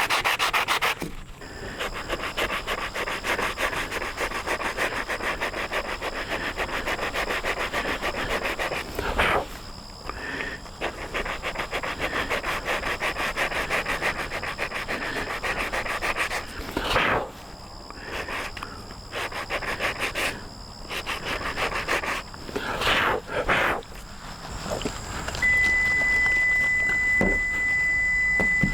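Body filler on a car roof being sanded by hand with 80-grit sandpaper: a continuous rasping scrape, broken by short pauses. A steady high tone sounds near the end.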